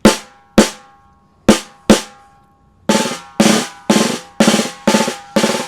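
Freshly retuned Ludwig Acrolite aluminum snare drum being struck: four sharp single hits, then from about three seconds in a steady run of strokes about two a second, each with a short ring.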